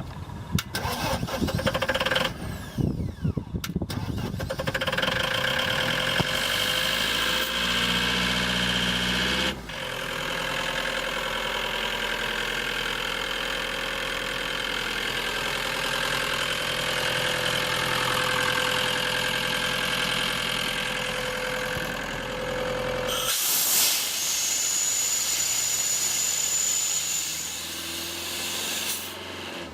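2011 Atlas Copco XAS 185 portable air compressor's diesel engine being cranked and starting, catching about four seconds in, then running steadily. Its note changes about ten seconds in, and a loud hiss joins it for several seconds near the end.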